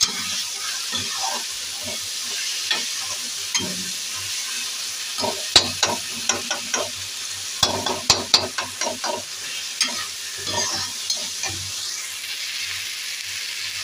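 Cabbage and potato sabzi sizzling steadily in a wok while a slotted spatula stirs it, scraping and knocking against the pan. The knocks come as a run of sharp clicks in the middle and again a little later.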